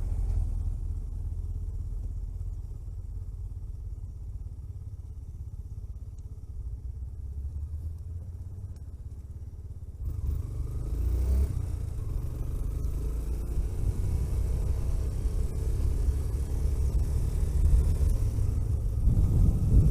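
A road vehicle driving along: a steady low engine and road rumble. About halfway through it turns suddenly louder, with more hiss.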